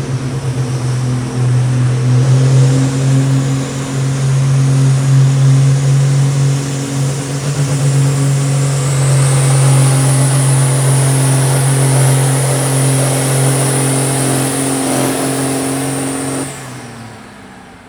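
Allis-Chalmers D21 farm tractor's diesel engine working hard at a steady high pitch, pulling the sled down the track. The engine note drops away sharply near the end.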